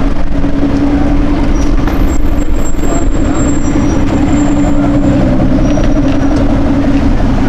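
A motor vehicle's engine running loud and close at a steady pitch, over street traffic noise.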